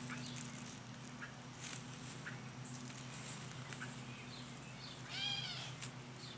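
Faint outdoor ambience with a steady low hum and a few short high chirps; about five seconds in, one brief animal call.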